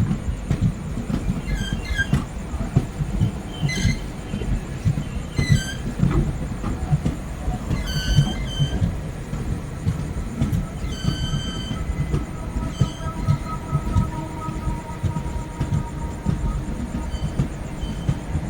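Indian Railways train rolling slowly with a continuous wheel rumble, broken by about eight short high-pitched wheel squeals and one longer drawn-out squeal in the middle.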